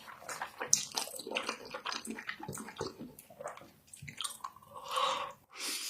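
Irregular crunching and chewing, many short clicks and smacks.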